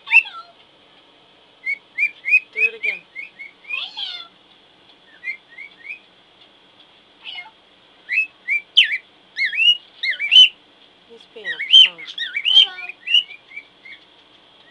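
Male cockatiel whistling in bursts of short rising chirp notes, separated by pauses, the later bursts louder and more varied.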